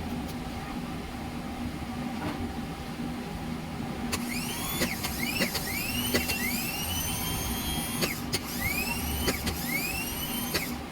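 A starter motor being switched on and off several times, each burst opening with a click and spinning up in a rising whine that levels off, over a steady low hum.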